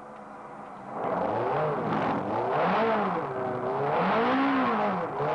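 Ferrari sports car engine heard from inside the cabin, quiet at first and then, about a second in, revving up and down in about three sweeps as the car is driven hard around the course.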